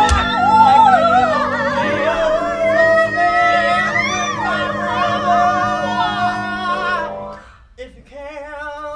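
Musical theatre singing: several voices hold long notes with vibrato over a steady accompaniment, cutting off together about seven seconds in. A single softer held note follows near the end.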